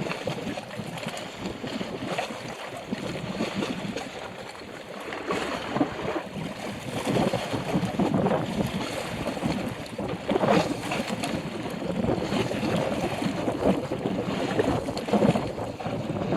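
Strong, gusty wind buffeting the microphone, an uneven rushing noise that swells and eases, with a sharper gust about ten seconds in.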